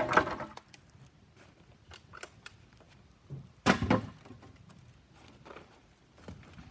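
Pieces of a cut-down metal signpost clanking as they are tossed down from the truck: a sharp clang right at the start with a short ring, a second clang about four seconds in, and light knocks and rattles between.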